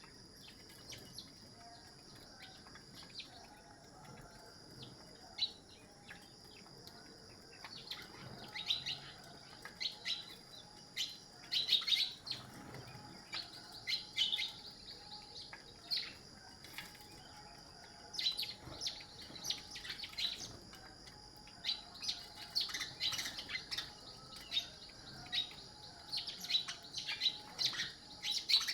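Small birds chirping, a steady run of short high chirps that grows busier from about eight seconds in, over a steady high-pitched tone.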